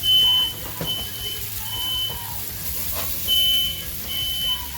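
Smoke alarm beeping: five shrill, even-pitched beeps of about half a second each, with a longer gap before the fourth. It has been set off by smoke from the burgers on the griddle.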